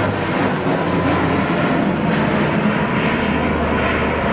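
Airbus A400M's four TP400 turboprop engines and propellers running loud as the transport aircraft flies low display manoeuvres, with a low steady hum that drops in pitch about a second and a half in.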